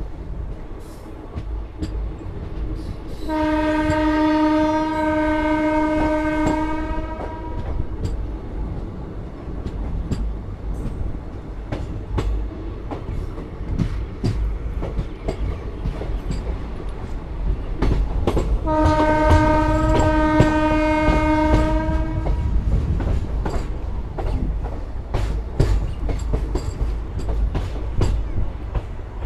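A moving passenger train heard from its open door: the wheels run over the rail joints with a steady rumble and clickety-clack. The train's horn sounds two long, steady blasts, one a few seconds in and another about fifteen seconds later, each lasting about four seconds.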